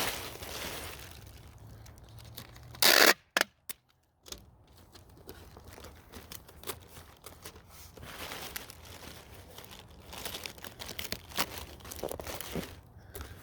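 Packing tape being pulled and torn off the roll and packing paper crinkling as a box is packed. The loudest sound is a short, sharp rip about three seconds in, followed by two quicker ones; softer rustling runs on after it.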